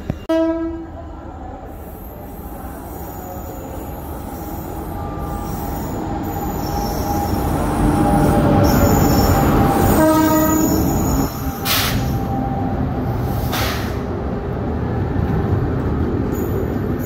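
Indian Railways train moving through the station, with a steady rumble that builds to its loudest around eight to ten seconds in. Two short locomotive horn blasts sound, one right at the start and one about ten seconds in.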